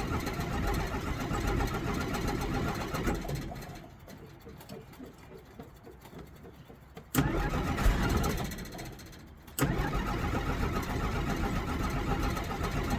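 1963 Jeep Gladiator engine running, then dying away about four seconds in. It catches suddenly about seven seconds in and fades out again, then catches once more near ten seconds and keeps running: a hard-starting engine that won't stay running.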